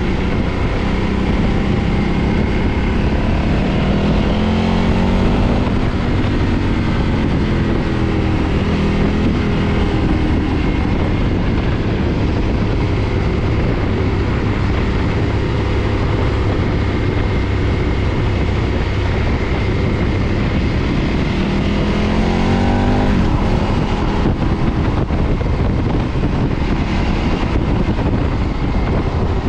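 KTM 990 V-twin engine through its stock exhaust, running under way. It rises in pitch twice under acceleration, once a few seconds in and again near the end.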